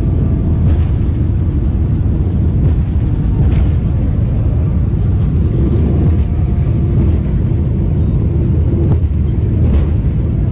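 Loud, steady jet-airliner noise heard from inside the cabin, a deep rumble with a few faint sharp pops, while the right engine is surging after takeoff.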